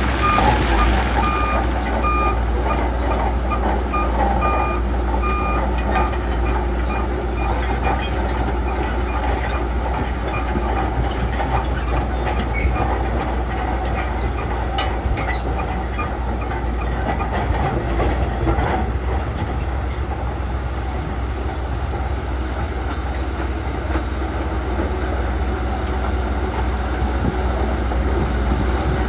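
Shantui crawler bulldozer's diesel engine running steadily under load, its steel tracks clattering. A reversing alarm beeps in regular pulses for the first several seconds.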